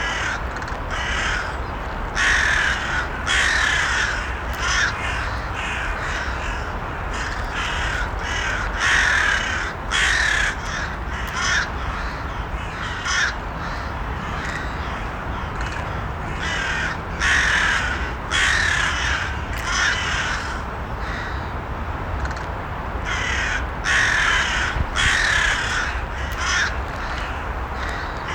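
Crows cawing repeatedly: harsh caws coming every second or so, often in runs of two or three, over a steady low rumble.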